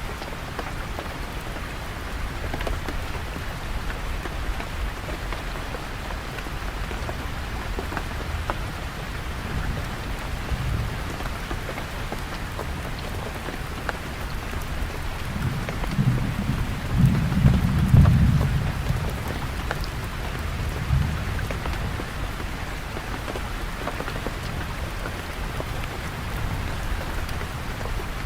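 Steady rain falling and pattering on surfaces, with a low rumble that swells and fades about two-thirds of the way through.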